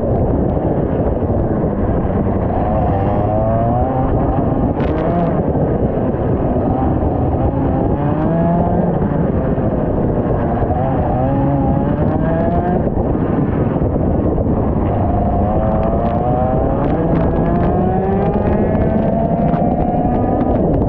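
125cc two-stroke kart engine revving hard and dropping back again and again through the corners: its pitch climbs in long rising runs and then falls off, about five times. A dense, rough noise lies under the engine throughout.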